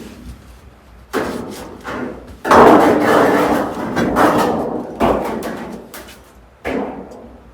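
A series of about five knocks or thuds, each followed by a scraping, rustling sound that fades over a second or so. The loudest comes about two and a half seconds in.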